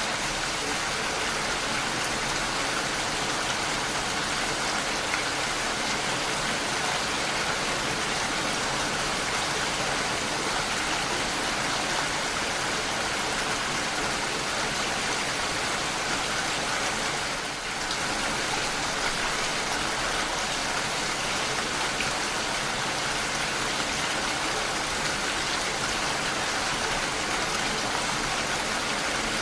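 Steady rain falling, an even, unbroken hiss of drops, dipping briefly a little past halfway.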